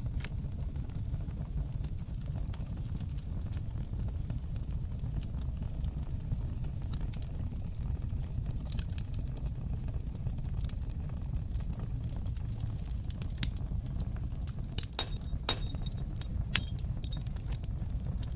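Wood fire in a stone fireplace crackling: frequent small snaps and pops over a steady low rush of the flames. Stronger snaps come near the end, one sharp pop the loudest.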